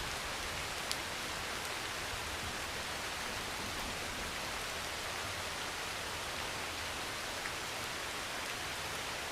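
Heavy rain pouring steadily on a metal roof: an even hiss with the odd sharper drop tick, the clearest about a second in.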